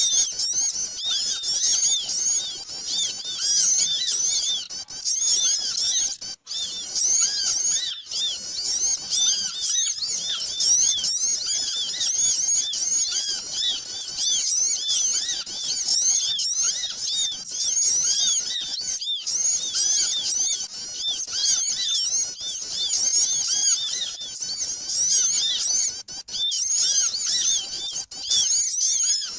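A noisy chorus of many small birds chirping densely and without a break, many short high-pitched notes overlapping. It is a bird-lure recording ('suara pikat') of small birds.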